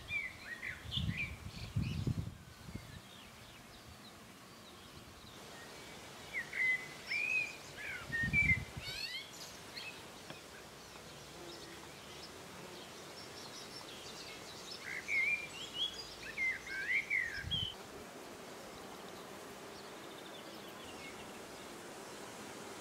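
A songbird singing in short, quick, warbling phrases, in three spells with pauses between, over a steady outdoor hiss. A few brief low rumbles come and go.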